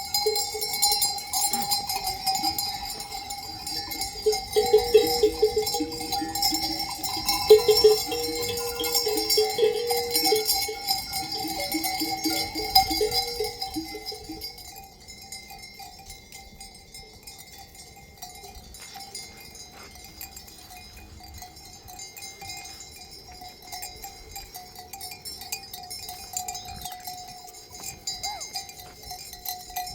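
Many livestock bells clanking and ringing on a herded flock, busier and louder in the first half, then thinning to a softer steady ringing.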